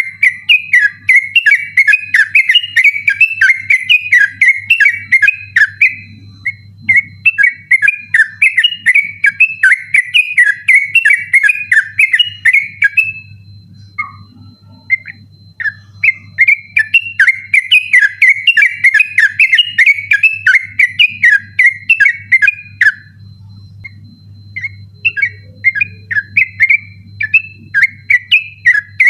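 Yellow-vented bulbul singing a rapid, unbroken chattering 'ropel' song in long runs of several seconds, broken by short pauses about halfway through and again near the end.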